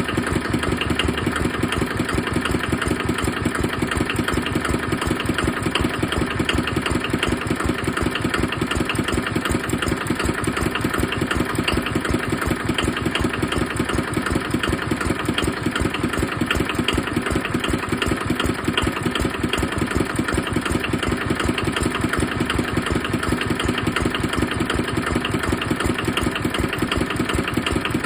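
Kubota KNDR55 single-cylinder diesel engine on a test run, running steadily at a constant speed with a fast, even beat.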